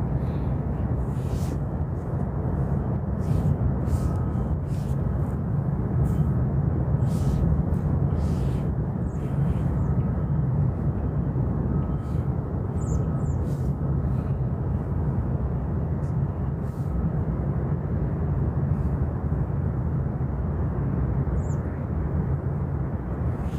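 Outdoor ambience: a steady low rumble, with faint ticks and two brief high chirps, one about halfway through and one near the end.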